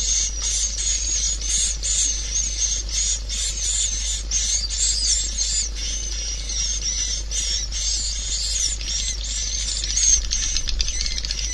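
Swiftlet lure call: a dense, nonstop twittering of many high, quick swiftlet chirps, over a steady low hum.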